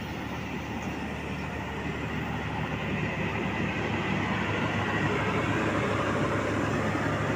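Diesel locomotive and a train's power van passing slowly close by, with a steady low engine hum and wheel-and-rail rumble that grows louder as the locomotive draws near.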